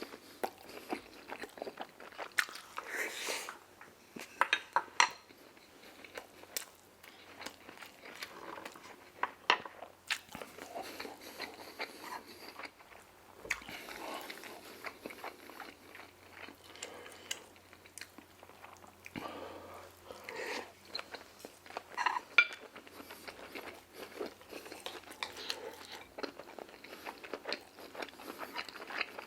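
Someone eating fried Chinese takeout food at the microphone: irregular crunchy bites and chewing, with occasional sharp clicks of utensils and containers.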